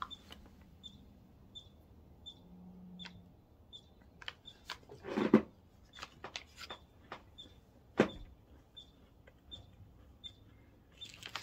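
Quiet chewing of a small, slightly crunchy mini chocolate chip cookie, with two louder knocks about five and eight seconds in. Under it, a faint high chirp repeats about twice a second.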